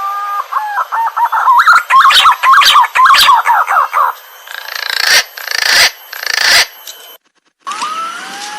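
Green pigeon (punai) calling: a run of whistled, warbling notes that slide up and down for about four seconds, then three harsh rasping notes. After a brief break, the song starts again with a rising whistle.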